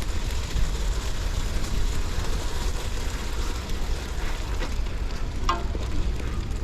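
Gravel bike rolling slowly over snowy, icy ground: a steady hiss of tyres with a low rumble of wind on the camera microphone. A brief squeak about five and a half seconds in.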